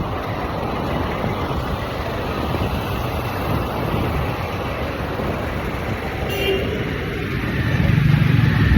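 Steady road and wind noise of a bike ride in traffic, with a brief horn toot about six and a half seconds in and a louder low rumble near the end.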